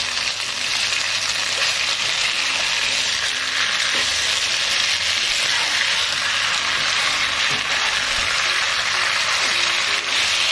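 Pieces of catfish with red curry paste, chilies and holy basil sizzling in hot oil in a pan as they are stir-fried with a spatula: a steady frying hiss.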